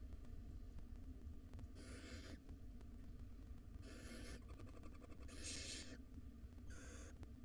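Barn owl nestlings giving hissing, snore-like begging calls: four separate rasping hisses, each under a second, over a steady low hum.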